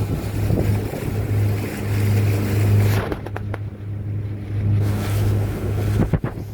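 Motorboat engine running under way with a low drone that swells and dips, under rushing wind and water hiss. The hiss drops away for a couple of seconds midway, and a few sharp knocks come near the end.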